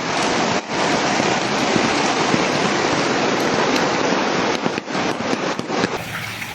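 Loud, steady rushing of storm water, a dense hiss with no distinct events in it. About six seconds in it gives way to a quieter, different water sound.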